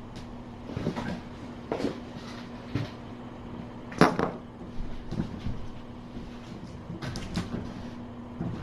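Kittens playing and running about, making scattered light knocks and thumps, the loudest about four seconds in, over a steady low hum.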